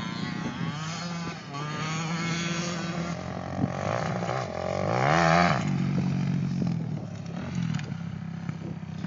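Several motocross bikes' engines running and revving. One rises in pitch and is loudest about five seconds in, then falls away.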